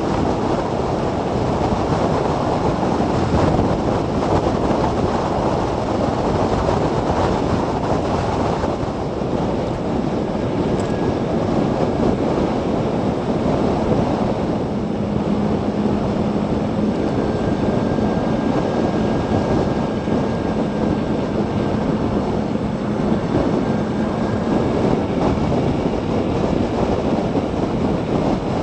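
Wind rush and road noise of a Zero DSR electric motorcycle riding at speed, picked up by a bike-mounted camera: a loud, steady rush, with a faint steady hum joining in for several seconds around the middle.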